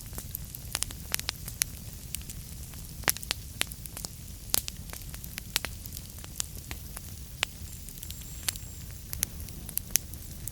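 Fire burning in a fireplace, crackling with irregular sharp pops, a few each second, over a steady low rumble.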